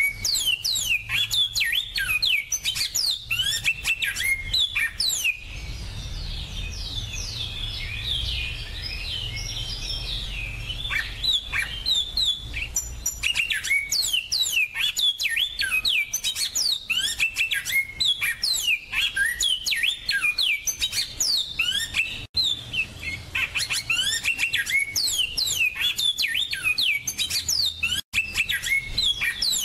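Finch song: a fast, continuous twittering of quick falling chirp notes, with two very brief gaps where the recording is cut.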